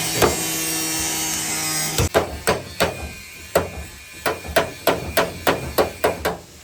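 Hammer blows on the car's body metal, a dozen or so sharp strikes at about three a second, starting about two seconds in, as panel-beating work on the crash damage. A steady hum runs before the strikes begin.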